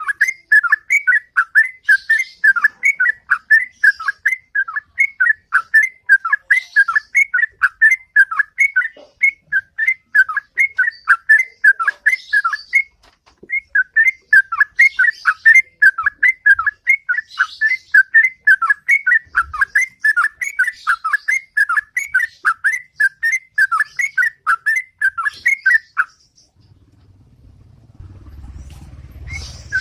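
Yellow-vented bulbul (trucukan) singing its 'ropel': a long, fast run of short repeated notes, about four a second. It breaks off briefly about halfway and stops near the end, when a low rumble comes in.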